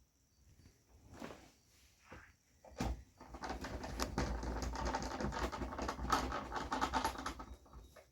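Rapid clicking and clattering of hard parts being handled, as when a TV is being closed up after repair. A few separate knocks come first, then a dense, continuous rattle of clicks about three seconds in that lasts nearly five seconds.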